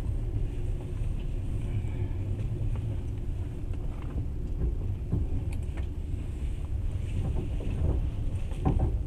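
Passenger train running, heard from inside the carriage: a steady low rumble of the wheels on the rails, with a few light knocks near the middle and end.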